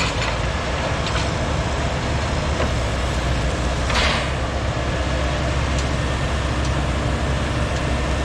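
Heavy diesel machinery engine running steadily, with a few short sharp noises over it, the loudest about four seconds in.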